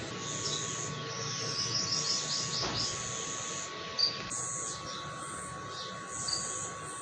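Birds chirping, with a quick run of short falling notes about two seconds in, over a steady thin high tone.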